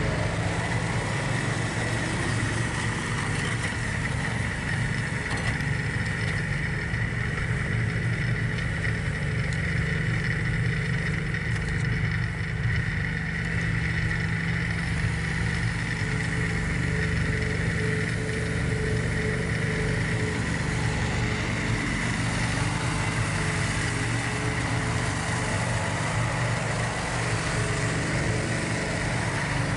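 John Deere 4110 compact tractor's three-cylinder diesel engine running steadily, with a constant high whine over the engine note.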